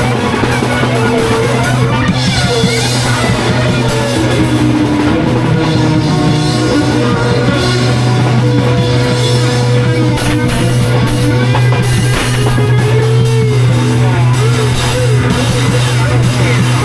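Live band improvising in a rock style: drum kit playing busily under guitar lines that bend and waver, over a steady sustained low note.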